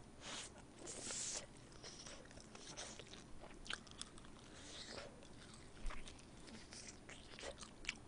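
Faint mouth sounds of biting and chewing soy sauce fried chicken close to the microphone: irregular small smacks and clicks.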